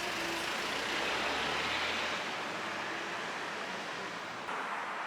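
Steady road and traffic noise with a low engine hum, changing abruptly near the end.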